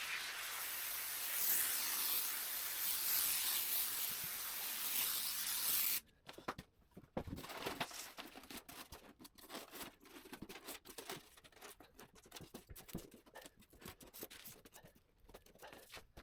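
Boat-building hand work: a steady rasping hiss for about six seconds that cuts off suddenly, followed by scattered light scrapes, rubs and clicks of parts being handled.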